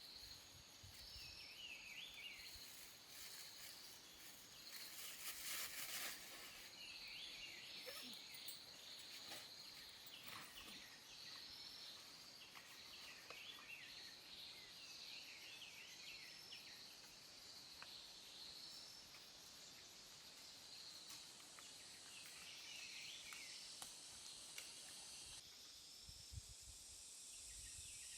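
Faint forest ambience: a steady high-pitched insect hum with many short chirps scattered through it. There is a brief rustle about five seconds in, and a few low thumps near the end.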